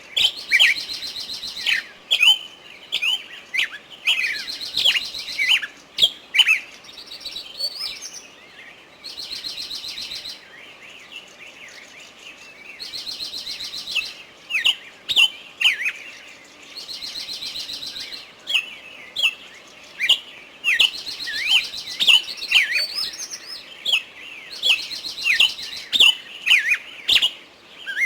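Small birds chirping: a stream of short, sharp falling chirps, broken about every four seconds by a buzzy, rapid trill of a second or so.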